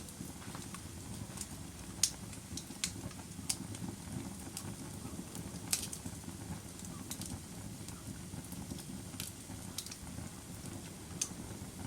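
Log fire crackling in a fireplace: a steady low rumble of burning with sharp pops and snaps at irregular intervals, the loudest about two seconds in, near the middle, and near the end.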